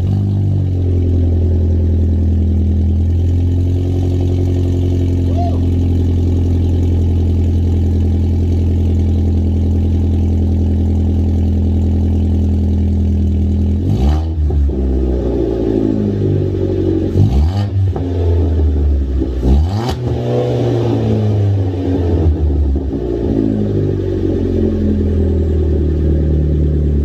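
2015 Ford Fiesta SE's 1.6-litre four-cylinder engine through a newly fitted aftermarket exhaust, idling steadily just after starting. About halfway through it is revved three times in quick succession, each rev rising and falling in pitch, then it settles back to a steady idle.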